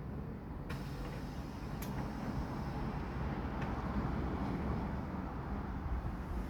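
Alexander Dennis Enviro400 MMC double-decker bus engine running at idle, a steady low rumble that swells slightly in the middle, with a few faint clicks.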